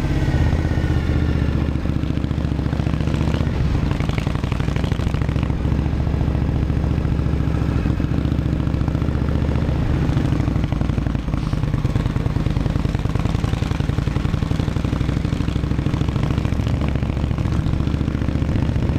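Indian Scout V-twin motorcycle engine running at a steady pace with no big revs. The engine is still warming up in the cold, at about 50 degrees.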